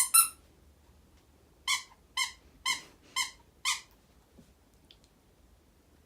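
Squeaky toy squeaked over and over: two quick squeaks at the start, then five evenly spaced squeaks about two a second, stopping about four seconds in.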